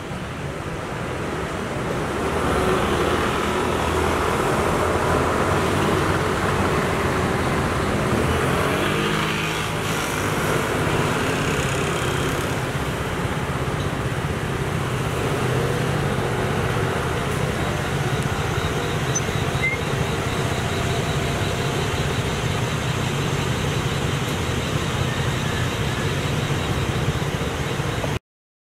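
Street traffic: vehicle engines running steadily, with a vehicle passing about nine seconds in. The sound cuts off suddenly just before the end.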